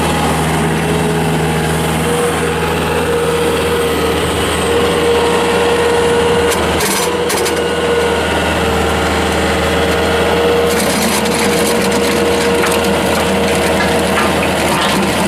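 Bobcat S220 skid steer's diesel engine running steadily under load while it drives a high-flow hydraulic rotary tiller churning through soil, with a constant whine over the engine hum.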